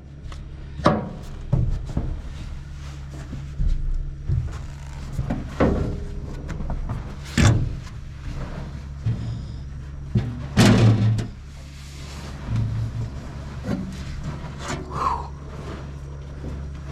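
Irregular knocks, bumps and rubbing as a person climbs down into a cramped space inside a combine, over a steady low engine hum.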